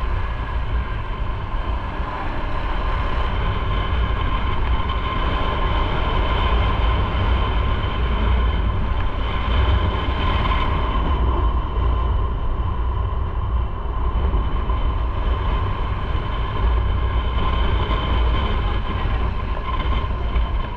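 Motorcycle riding at steady speed: continuous engine and road noise under heavy wind rumble on the microphone.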